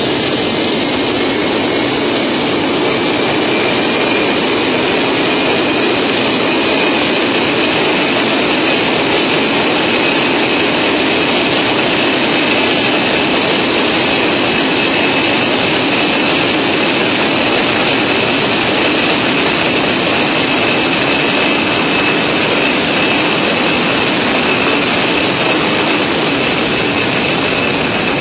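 Jet airliner engines heard from the landing gear: a loud, steady rush of engine and air noise, with a turbine whine that rises in pitch over the first few seconds and then holds steady.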